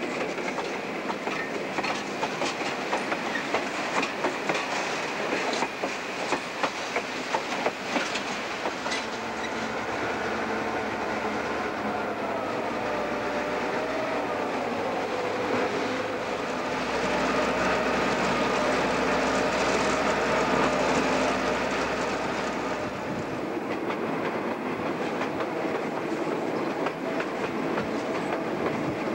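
Algoma Central passenger train rolling along jointed track. Wheels click sharply over the rail joints as the coaches pass during the first eight or nine seconds. After that comes steadier running noise with a faint wavering whine, louder for a while a little past halfway.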